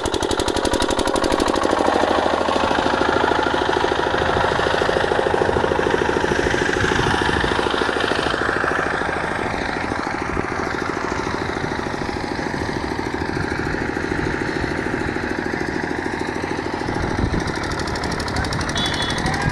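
Fast, steady mechanical rattling from a power tool or machine, easing slightly about halfway through.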